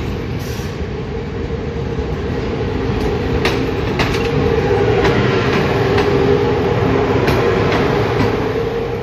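A train running on the track, with a steady rumble and a held tone beneath it. Wheels give a few sharp clicks over rail joints, and the sound grows louder towards the middle.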